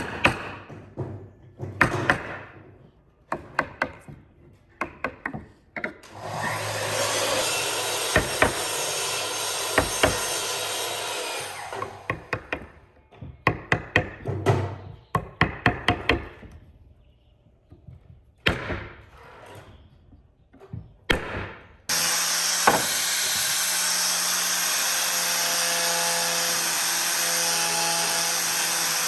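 Workshop woodworking: a series of knocks and taps on wood, broken by a power tool running steadily for about six seconds. Near the end a power tool switches on sharply and runs steadily with a low hum.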